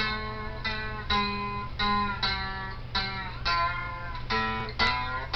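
Guitar music from an outro song, without singing: notes and chords are plucked about twice a second, each one ringing and then fading.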